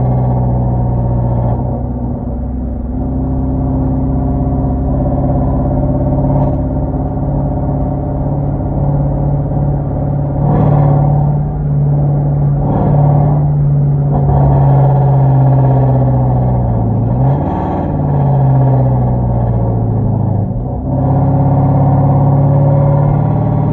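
Hyundai Genesis 5.0 sedan's V8 running straight-piped, with 2.5-inch pipes, Flowmaster Super 10 mufflers and no catalytic converters, droning steadily while driving. Its pitch eases down and back up with the throttle, with a few brief louder swells near the middle.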